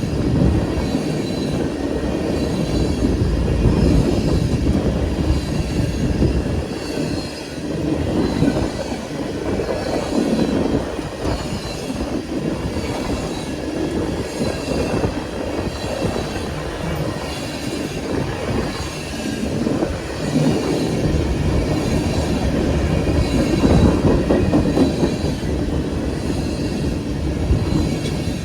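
Norfolk Southern freight train rolling past, a steady rumble of wheels on the rails that swells and eases, with some wheel squeal.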